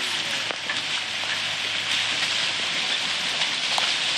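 Steady rushing and splashing of stream water, an even hiss with a few faint clicks.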